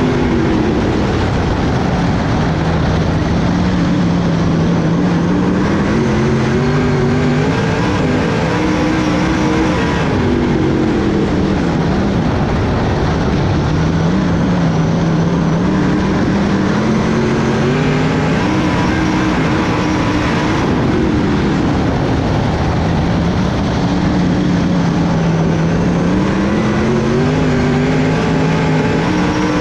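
A race car engine running hard, its pitch climbing along a straight and dropping as the driver lifts for a turn, about every ten seconds, lap after lap.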